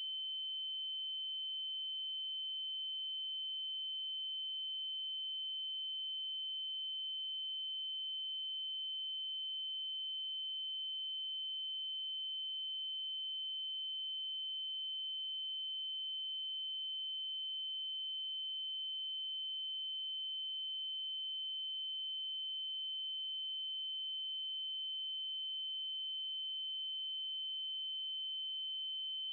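Synthetic 3072 Hz triangle-wave tone, one steady high-pitched note held without change, with a faint blip about every five seconds.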